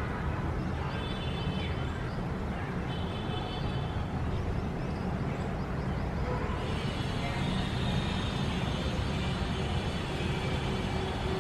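City street ambience: steady traffic noise with a low rumble, brief faint high tones in the first half, and more hiss about two-thirds of the way through.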